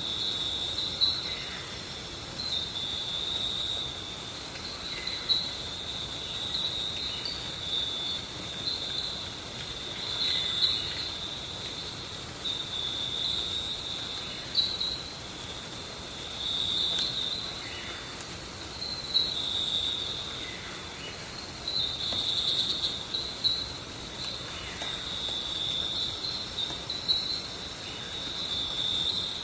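Insects chirring in a steady high-pitched woodland chorus that swells and fades in bouts every few seconds, with a few faint falling whistles now and then.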